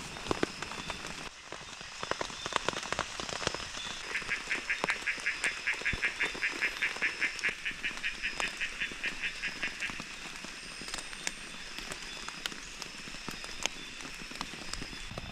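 Rain dripping, with scattered sharp drop taps. From about four seconds in until about ten seconds, an animal gives a rapid pulsed call of about six pulses a second.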